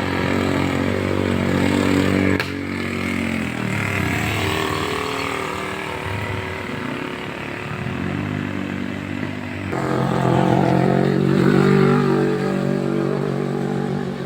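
Vehicle engines labouring up a steep hill one after another, each pulling hard in a low gear, the pitch rising and then falling. The sound changes abruptly twice, about two and a half and about ten seconds in; the last engine is the loudest and holds a steady note.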